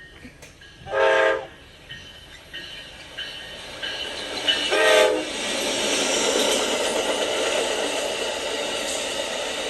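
Amtrak P42DC diesel locomotive's air horn sounding two short chord blasts, about a second in and about five seconds in. Then the train's steady running noise grows louder as it comes by.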